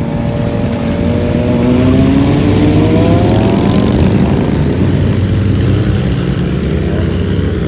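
Motorcycle engine revving up, its pitch rising steadily over the first four seconds, over a steady low rumble of engines.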